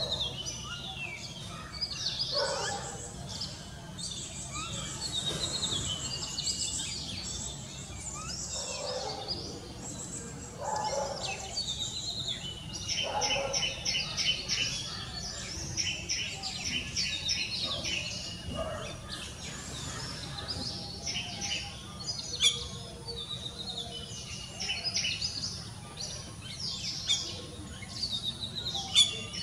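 Birds calling: a continuous run of quick, high chirps and whistles, with a few lower, harsher notes now and then, over a faint low steady hum.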